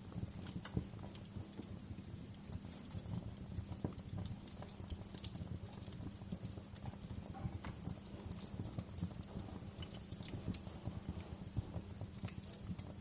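Wood fire crackling in a fireplace: frequent, irregular sharp pops and snaps over a steady low rumble of flame.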